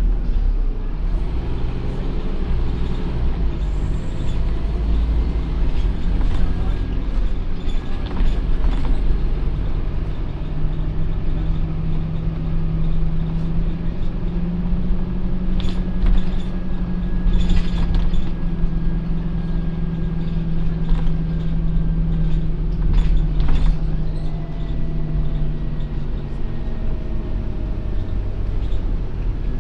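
Scania OmniCity N230UD double-decker bus engine running as the bus drives. A steady drone comes in about ten seconds in and eases off near the end, with a few sharp knocks or rattles in between.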